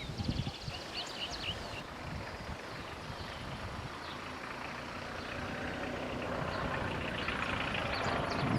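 A diesel freight train approaching, its noise growing steadily louder. Birds chirp near the start.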